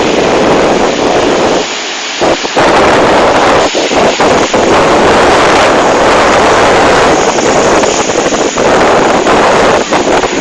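Ocean waves with heavy wind buffeting the microphone: a loud, continuous roar of noise with a low rumble and a brief lull about two seconds in.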